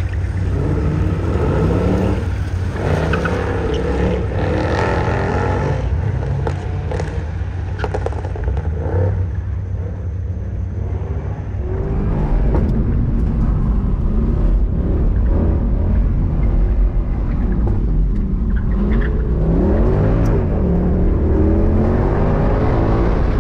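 Mercedes-Benz C63 AMG's V8 being driven hard, its note climbing and falling again and again as it accelerates, shifts and brakes between cones. For the first half it is heard from outside the car; after about twelve seconds it is heard from inside the cabin, with a heavier low rumble.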